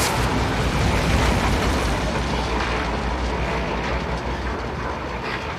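Deep, steady mechanical rumble of a giant machine in motion, like a heavy train, slowly fading. This is the film's sound of the moving traction city's machinery.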